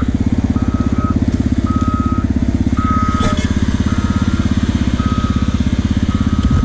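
A 2005 Yamaha TT-R250's single-cylinder four-stroke engine running steadily close by. Over it, a road grader's backup alarm beeps at a steady pitch about once a second.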